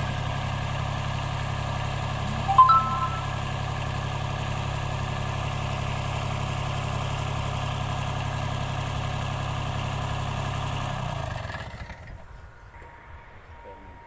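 A mini tractor's small engine running steadily, then winding down and stopping about eleven and a half seconds in. About two and a half seconds in, a short, loud, ringing tone sounds over it.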